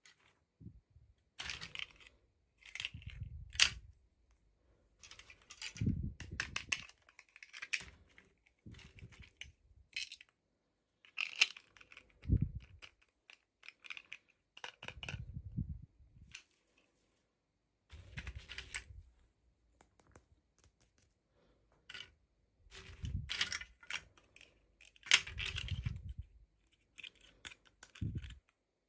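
Toy packaging and small plastic doll pieces being handled: irregular clicks, taps and crinkling in short bursts, with a few dull bumps and brief silent pauses between.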